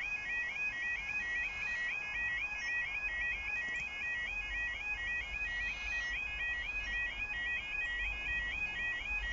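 Level crossing warning alarm sounding continuously: a rapid, repeating two-tone warble, the audible signal that the barriers are lowering or closed for an approaching train.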